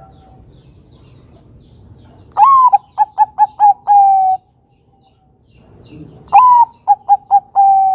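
Zebra dove (Bangkok perkutut) singing its cooing song twice: each phrase opens with a rising note, runs into a few short quick notes and ends on a long held coo, about two seconds each.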